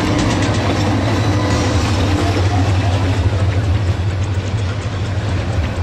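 Passenger train rolling past close by: a steady low rumble with the rattle of the carriages on the track.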